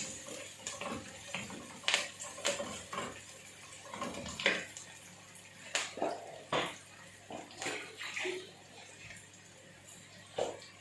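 Onions frying in a pan with a steady sizzle, with irregular clicks and scrapes of a utensil stirring them.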